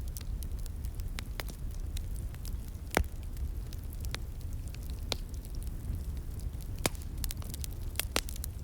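Slowly burning wood fire crackling, with scattered sharp pops over a steady low rumble; the loudest pop comes about three seconds in.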